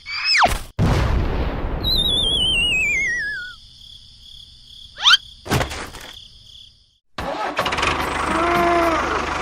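A string of edited sound effects: a burst of noise with a wobbling whistle falling in pitch, a quick rising sweep about five seconds in, then from about seven seconds a steady, engine-like running sound.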